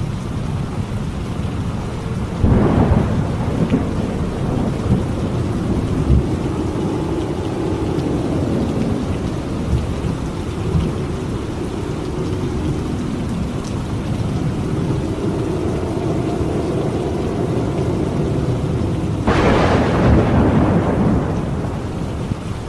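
Steady heavy rain during a thunderstorm, with two claps of thunder, one a few seconds in and one near the end, each trailing off into a low rumble.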